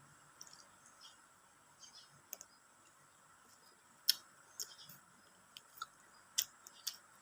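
Close-miked eating sounds: scattered sharp mouth clicks and smacks of someone chewing, with the loudest about four and six and a half seconds in, over a faint steady high-pitched background hiss.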